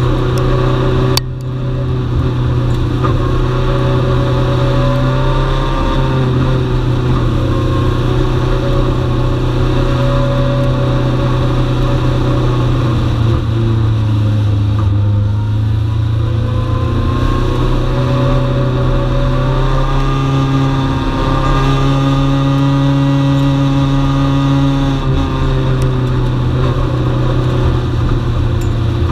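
Dwarf race car's motorcycle-derived engine running hard at racing speed, heard onboard. Its pitch dips and climbs again as the car lifts off and gets back on the throttle, once midway and again near the end. A brief sharp click about a second in.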